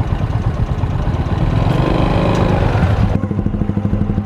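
Honda Supra motorcycle's single-cylinder four-stroke engine running steadily at low revs, near idle.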